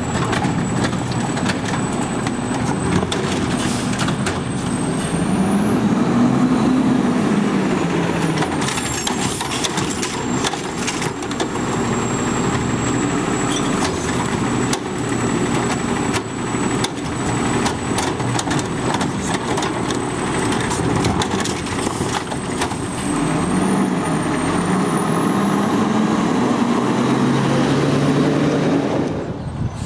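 Garbage truck at work: its diesel engine runs and revs up and back down twice, with scattered clanks and knocks and a thin high whine that rises in pitch with each rev.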